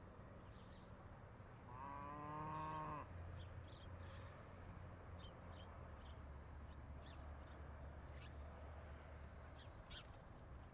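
A cow moos once, about two seconds in, a single drawn-out call of about a second. It sits over a low steady rumble and scattered faint high chirps.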